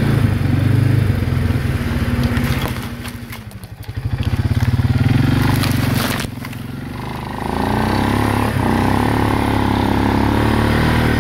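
Quad (ATV) engine running under load through snow. It slows with a falling pitch about three seconds in, picks up again, then settles to a steadier run for the second half.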